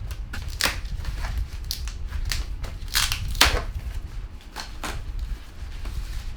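Packaging being handled and unwrapped: irregular crinkling and crackling with sharp clicks, the loudest a few seconds in, over a low steady rumble.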